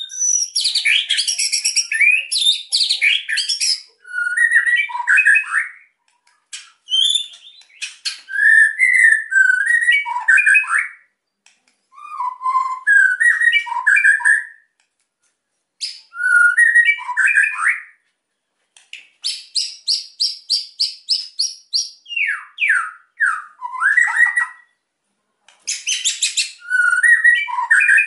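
White-rumped shama singing agitatedly in short bursts of varied whistled phrases with brief gaps, mixed with harsh crackling rattles (kretekan). A little past the middle it gives a fast run of about a dozen repeated notes.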